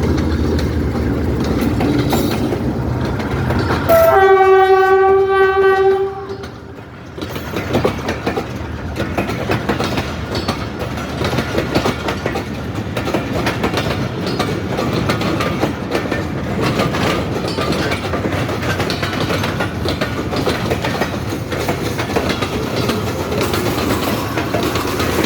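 A relief train passing by. The locomotive's engine rumbles low, then its horn sounds one steady blast of about two seconds. After that the train's wagons roll past with a continuous clatter of wheels over the rail joints.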